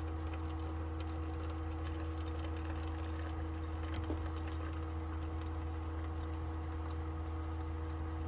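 Steady low machine hum with a steady, even whine above it and faint light ticks over the top.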